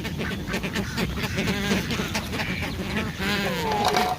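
Ducks quacking in quick, overlapping calls.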